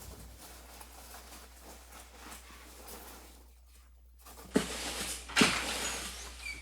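Two sharp knocks about a second apart, each followed by about a second of rustling, like things being handled and set down.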